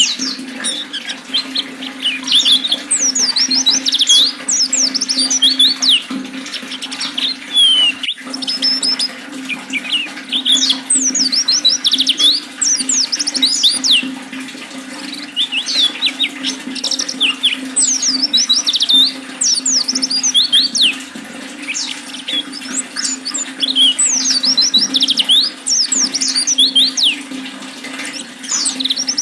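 White-eye (pleci) singing rapid, high twittering phrases in repeated bursts over steady flowing water. The audio briefly cuts out about eight seconds in.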